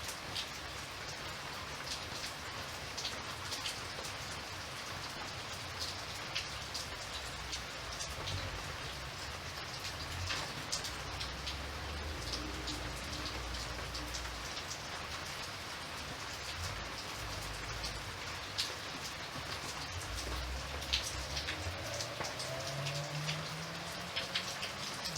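Steady rain falling, with many small raindrop ticks scattered through it. A low rumble swells underneath partway through.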